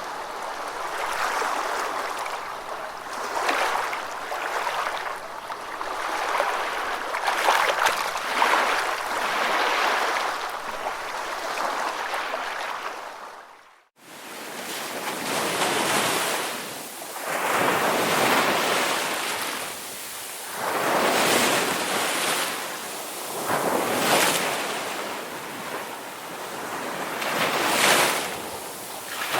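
Ocean waves breaking and washing ashore, surf swelling and ebbing every few seconds. About halfway through the sound fades out for a moment and comes back, after which the surges of breaking water are more distinct.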